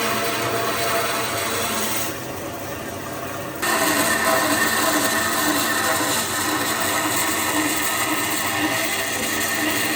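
Power tool running steadily on wood, a noisy hum with several steady whining tones. It dips about two seconds in and comes back louder about a second and a half later.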